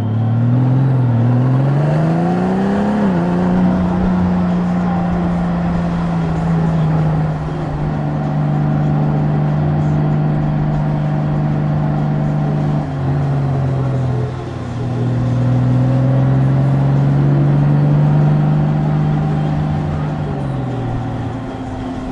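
Honda Gold Wing DCT's flat-six engine under way, heard from the bike. It rises in pitch as it accelerates, drops sharply at each dual-clutch upshift, holds a steady cruising note, and eases down near the end as the bike slows.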